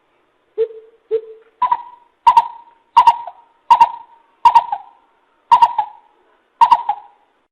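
Coucal (bìm bịp) calling: a series of about nine deep hoots, the first two lower, the rest higher and louder, each under a second apart.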